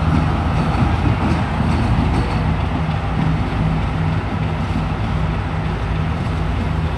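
Diesel multiple unit passenger train passing close by and pulling away: a steady low diesel engine drone over the rumble of wheels on the rails, easing slightly in the second half as the power car moves off.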